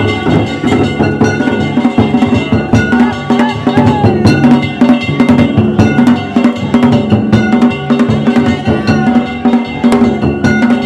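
Danjiri festival float's percussion: a taiko drum and clanging hand gongs beaten in a fast, driving, steady rhythm, with the gongs ringing on between strokes.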